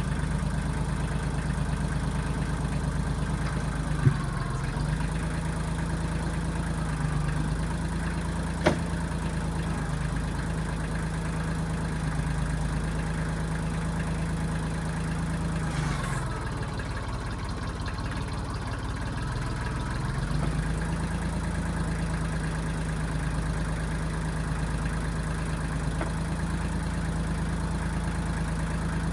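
Diesel engine of a 1995 Kubota backhoe running steadily, its pitch sagging briefly about four seconds in and again for several seconds around the middle before recovering. Two sharp clanks about four and nine seconds in.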